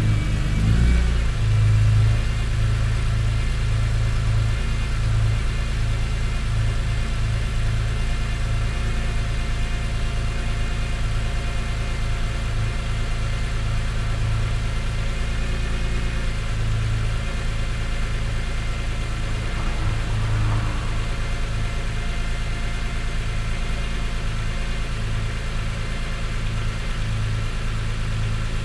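Car engine idling, still cold after sitting overnight, with a steady low drone that pulses slightly. The engine note drops a little about a second in, then holds steady.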